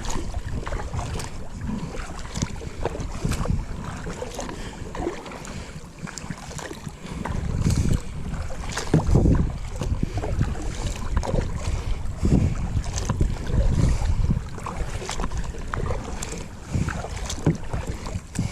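Wind buffeting the camera microphone in gusts over the sound of a Pelican kayak on open water, with small knocks and clicks from the boat.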